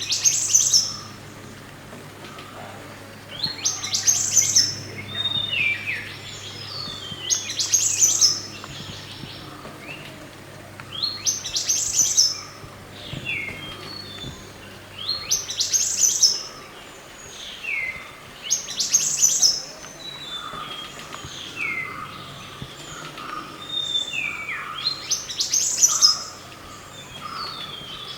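Mantenan gunung songbird singing a repeated phrase about every four seconds. Each phrase is a quick run of high chirps that ends in a falling whistle. A faint low hum stops about halfway through.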